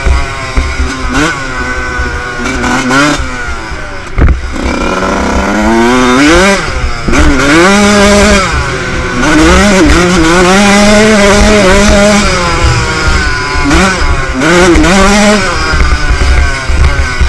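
Motocross bike engine revving up and down over and over as the throttle opens and closes and the gears change, with a sharp knock about four seconds in.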